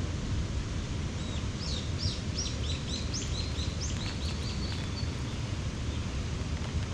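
A small bird singing a quick run of short, high, downward-sweeping notes, about three a second, for a few seconds, over a steady rushing outdoor background noise.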